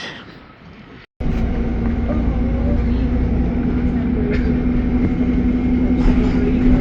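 City bus running, heard from inside the cabin: a steady engine rumble with a constant droning hum. It starts suddenly about a second in, after a brief stretch of quieter street noise.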